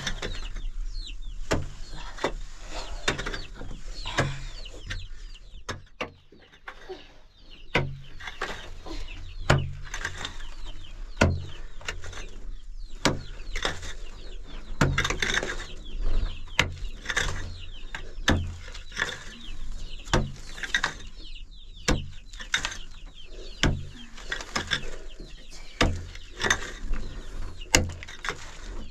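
Chickens clucking and chirping, over a run of sharp knocks and clicks with dull thumps about once a second.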